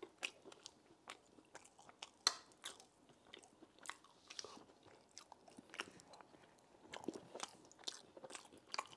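Close-miked chewing and mouth sounds of a man eating rice and palm-nut stew from a spoon: a steady run of irregular wet smacks and sharp clicks.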